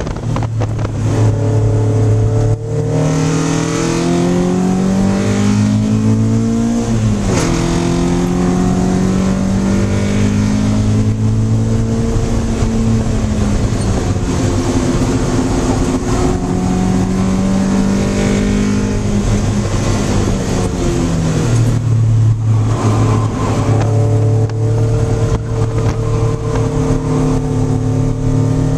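Race-prepared Miata's naturally aspirated high-compression 2.0-litre four-cylinder with individual throttle bodies, heard from inside the cabin under hard acceleration. The revs climb in long pulls, drop sharply about seven seconds in at a gearshift, ease off twice more for corners, and then run steady near the end.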